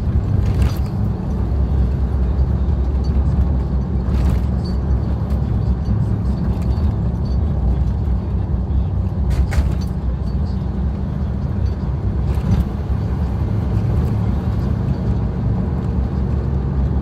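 Suzuki Jimny driving on a gravel forest track: a steady, heavy low rumble of engine and tyres, with four short sharp knocks from the track.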